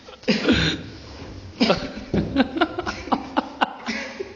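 A person laughing in a run of short bursts, densest in the middle.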